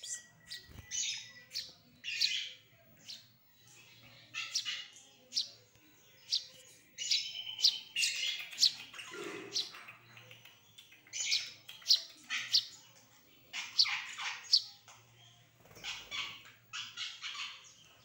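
Tame pet bird calling over and over in short, sharp, high chirps, often several in quick succession.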